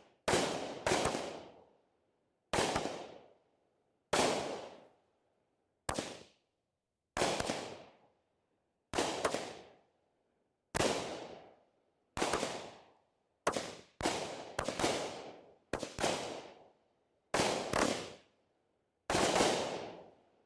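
A 16-shot, 200-gram consumer firework cake firing its shots in sequence, about one a second and sometimes two in quick succession. Each is a sharp bang that fades out over about a second.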